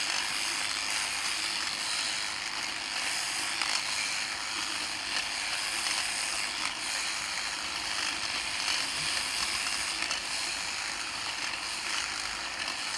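Electric sheep-shearing handpiece running steadily, its cutter chattering across the comb as it shears the fleece.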